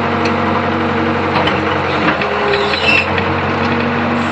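Old Hitachi UH025 mini excavator's diesel engine running steadily, with a few light knocks from the machine working.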